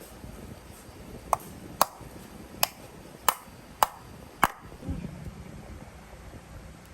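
Six sharp metallic taps, each with a brief ring, spaced roughly half a second to a second apart over about three seconds, then they stop.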